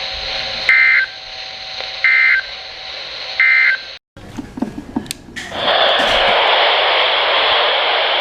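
Three short bursts of warbling EAS/SAME data tones, about a second and a half apart, over radio hiss: the end-of-message signal that closes a weather warning broadcast. After a brief dropout just past the middle, loud steady radio static comes in.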